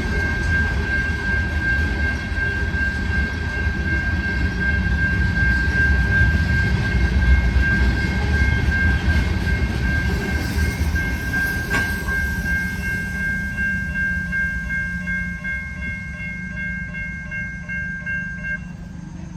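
A freight train of loaded covered hoppers rolling past with a heavy low rumble of wheels on rail, which fades over the second half as the train moves away. A steady high-pitched tone runs over it and stops shortly before the end, and a single sharp click comes about twelve seconds in.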